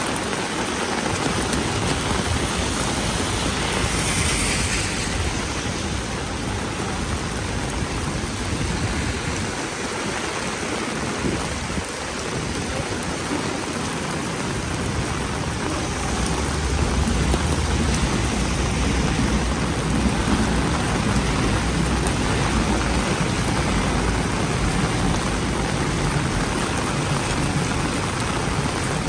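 Steady rain falling on the city street, an even hiss of water. A low rumble joins in for several seconds past the middle.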